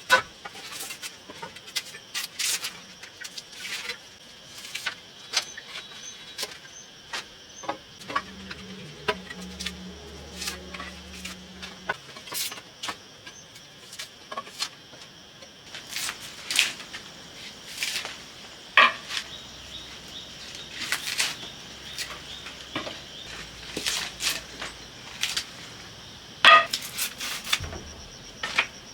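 Steady insect chorus with many scattered sharp clicks and knocks from work with wood and tools, the loudest coming two-thirds of the way through and near the end.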